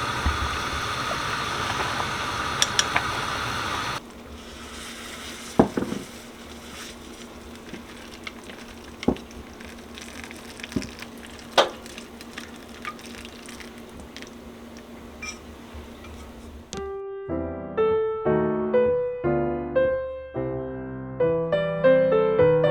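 A steady, even background noise cuts off about four seconds in, leaving a quieter background with scattered small clicks and taps. Electric piano music starts near the end.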